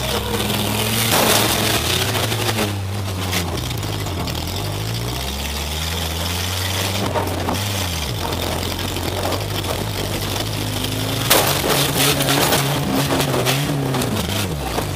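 Demolition derby car's engine heard from inside the cabin, revving up and falling back again and again as the car is driven. Several sharp knocks cut through, the loudest about eleven seconds in.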